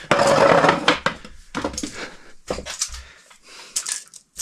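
A rattling, scraping clatter for about a second, then scattered light knocks and clicks from tools and materials being handled.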